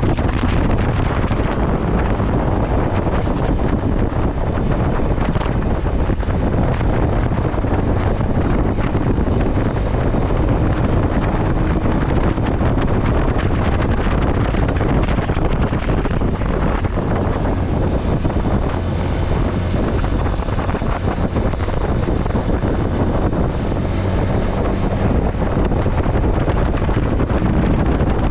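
Steady, loud wind buffeting the microphone of a moving motorcycle, with the bike's engine running faintly underneath.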